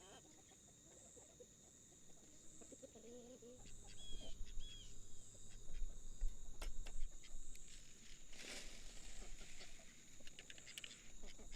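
Chickens clucking over a steady high insect chirring, with a low rumble, a few sharp knocks and a brief rustle from about four seconds in.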